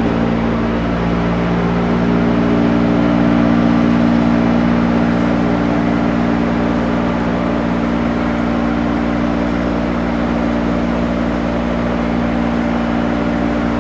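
Steady car engine drone and road noise from inside a moving car's cabin.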